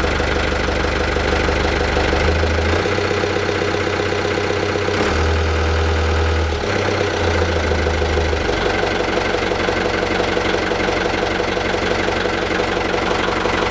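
Yamaha 72X (MD38K-CH) inboard marine engine running at idle after starting, with a steady knocking beat. Its deepest note shifts several times in the middle before settling again.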